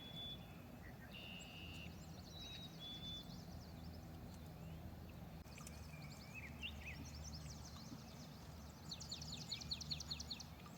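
Small birds chirping and whistling in short high notes, with a fast trill near the end, over a faint low rumble.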